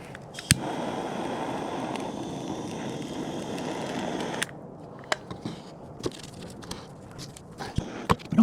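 A small scraper scraping wax off a wooden board: a sharp click, then about four seconds of steady rough scraping, followed by light clicks and knocks of the wood being handled.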